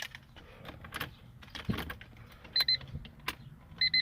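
Keys clicking and rattling as a key is fitted into the ignition of a 1991 Honda Civic, with short high electronic beeps twice about two and a half seconds in and a quick run of four beeps near the end.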